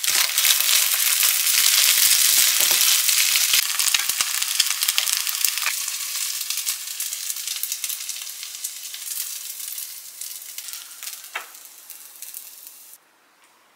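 Egg fried rice sizzling in a hot pan as it is stir-fried with a silicone spatula, with short scraping clicks from the spatula over the first few seconds. The sizzle then fades away gradually and cuts off suddenly near the end.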